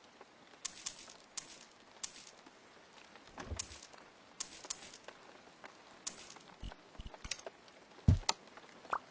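Light clinks and taps of small hard objects being handled, about ten at irregular intervals, with a couple of duller knocks among them.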